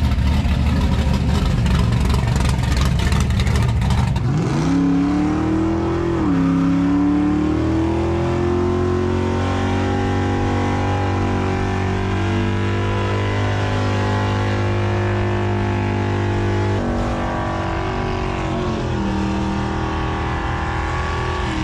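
A car engine revving hard: a rough, noisy blast for the first four seconds, then the pitch climbs and holds steady at high revs, dropping a step about seventeen seconds in.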